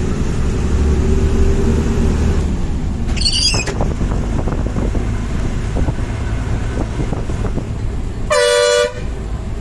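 Bus engine and road noise heard from inside a moving bus, with a short horn toot about three seconds in and a loud half-second horn blast near the end.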